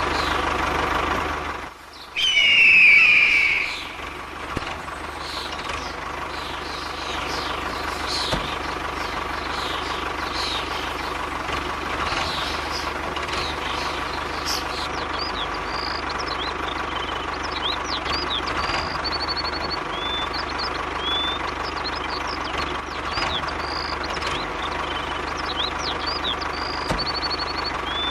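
A motor running steadily. About two seconds in the sound dips briefly and a short loud warbling tone follows. From about halfway through, birds chirp again and again over the running motor.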